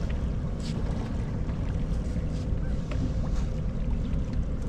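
Steady low wind rumble on the microphone with a faint steady hum, and a few faint short knocks and a brief hiss.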